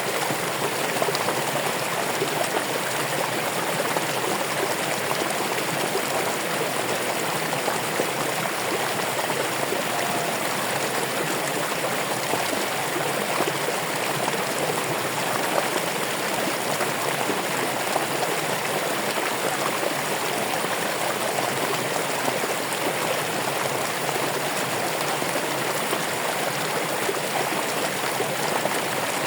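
Running water flowing steadily, an even rushing and babbling with no pauses or separate splashes.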